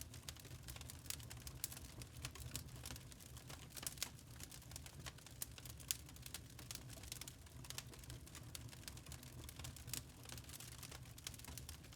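Wood fire crackling in a fireplace: irregular sharp crackles and pops, several a second, over a steady low rumble.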